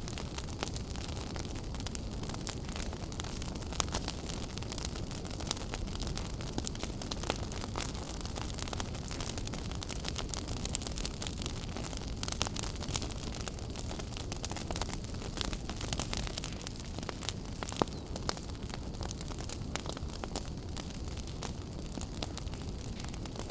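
Wood fire burning in a fireplace, crackling constantly over a steady low rumble, with a few louder pops.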